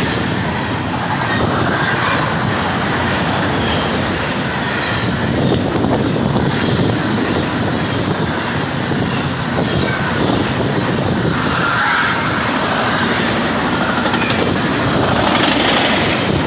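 Fast intermodal freight train's double-stack well cars and trailer-carrying flatcars rolling past at speed, a steady loud noise of steel wheels on rail.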